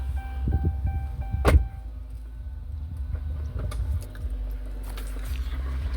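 Steady low rumble inside a car's cabin, with one sharp click about a second and a half in.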